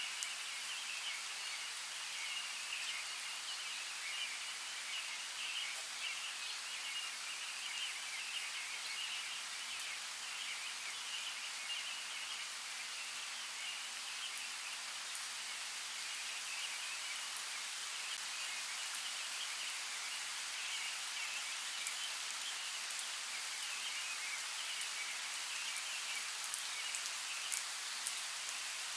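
Steady rain falling, with a continuous high-pitched chorus of calling animals above it and a few sharp drip ticks near the end.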